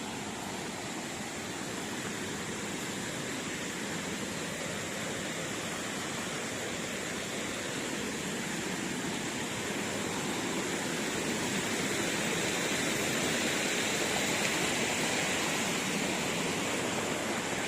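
Steady rushing of a waterfall's falling water, growing gradually louder.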